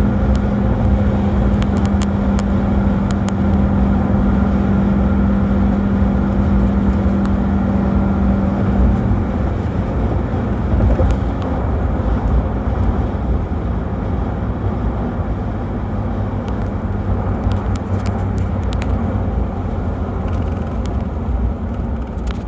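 Turbo diesel engine of a 1995 Land Cruiser running under way with road noise, heard while driving. A steady drone holds for about nine seconds, then drops away, and the engine and road noise ease off gradually.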